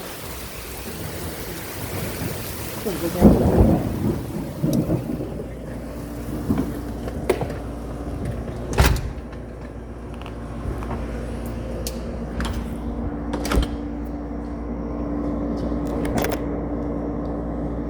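Rain falling in a steady hiss that cuts off abruptly about three seconds in, followed by a loud low rumble and then scattered sharp taps over a steady low hum.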